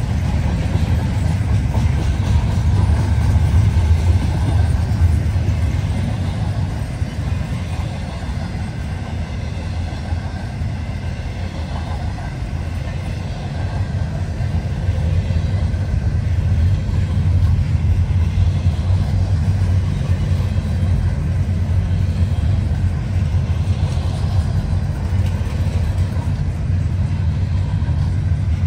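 Long freight train rolling past, its cars making a steady rumble on the rails. The rumble eases slightly partway through, then builds again.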